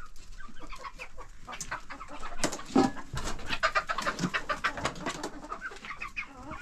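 Birds calling, with many short calls in quick succession, busiest around the middle.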